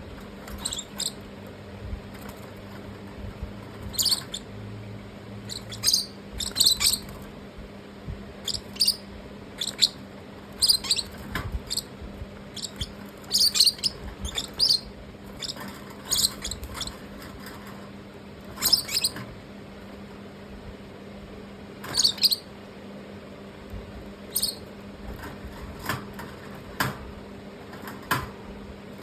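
Parrots giving short, high-pitched chirps at irregular intervals, over a steady low hum.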